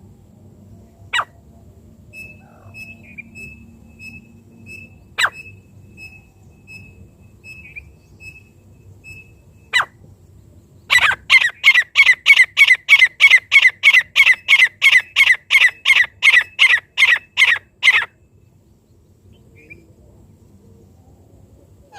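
Francolin (teetar) calling, the kind of call used to lure francolins in. Three sharp downward-swept notes come about four seconds apart over faint repeated chips. Then a loud, rapid, harsh series of about twenty notes, roughly three a second, runs for about seven seconds and stops abruptly.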